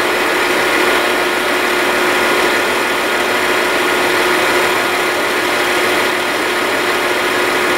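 Train running slowly along the track: a steady mechanical running noise with a constant whine held through it.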